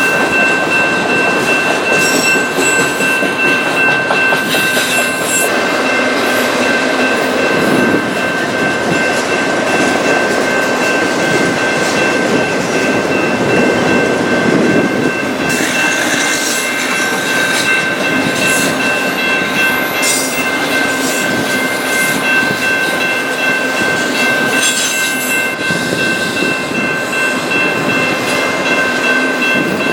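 Train rolling past close by: a steady, continuous rumble of cars on the rails, with a steady high-pitched whine running under it.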